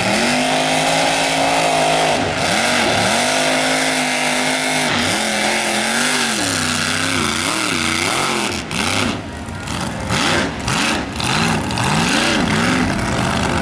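High-horsepower mega mud truck engine revving hard. It is held at high revs for a couple of seconds at a time twice, then blipped up and down repeatedly in the second half.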